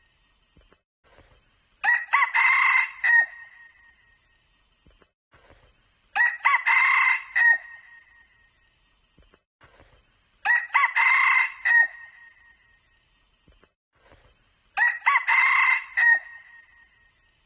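Red junglefowl cock crowing four times, evenly spaced about four seconds apart, each crow about a second and a half long and clear, with quiet between.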